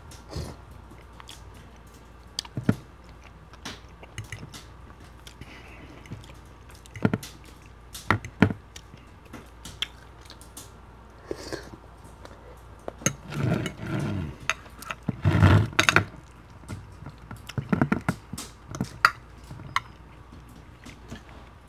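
Close-miked eating sounds of someone chewing poutine (gravy-soaked fries and cheese curds): wet chewing and lip smacks in irregular bursts, with sharp little clicks between them and a louder spell of chewing past the middle.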